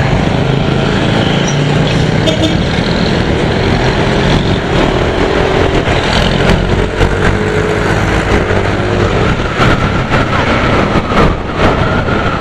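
Road traffic heard from a motor scooter riding through it: vehicle engines running steadily, with a thin steady tone coming in about three quarters of the way through.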